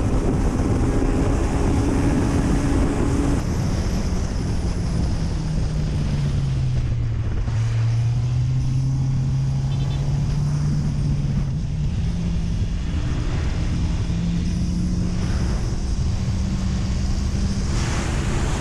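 Honda CB650R's inline-four engine running as the motorcycle is ridden. Its note eases down about seven seconds in, then climbs slowly and steadily, over a steady rushing noise.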